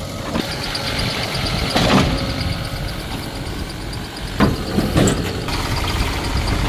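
Heavy diesel engine running steadily, with a few sharp knocks and clanks about two, four and five seconds in.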